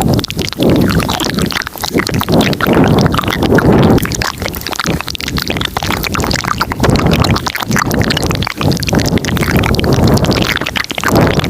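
Close-miked ASMR mouth sounds, several tracks laid over each other: dense wet clicks and smacks over low swells that rise and fall every second or two.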